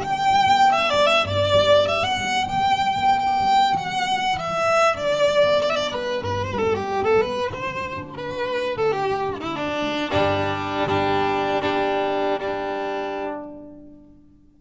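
Instrumental music: a bowed violin plays a slow, sliding melody over low sustained notes, then holds a long final chord that fades out near the end.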